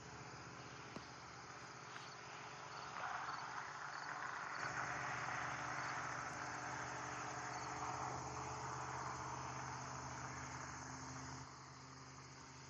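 Crickets chirping steadily in the night, under a broad rushing noise that swells up about three seconds in and fades out shortly before the end.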